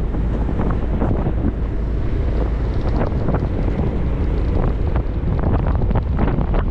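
Wind buffeting the microphone on a moving motorcycle: a loud, steady low rumble with irregular gusts.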